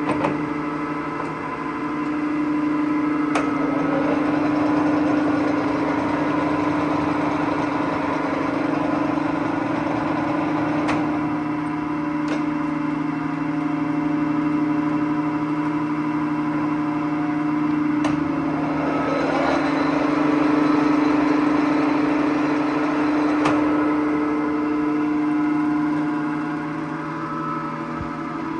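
Clausing Colchester 17-inch engine lathe running under power: a steady hum and whine from the motor and spindle drive, with a few sharp clicks.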